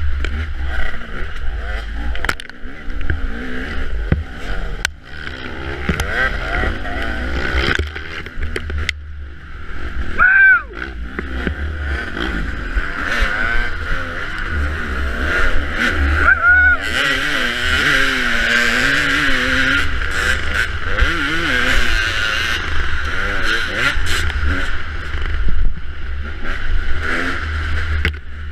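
Dirt bike engine revving up and down as the throttle is worked, its pitch rising and falling again and again, over a constant low rumble. Sharp knocks come now and then, most in the first few seconds.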